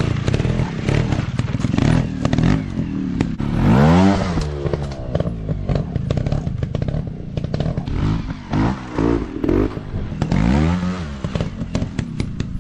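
Dirt bike engine revving in repeated bursts, its pitch rising and falling sharply several times, with scattered knocks and clatter over rough ground.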